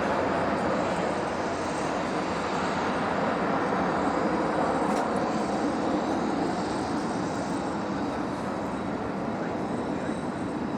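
Jet airliner's engine noise, a broad steady rush that slowly fades as the aircraft moves away.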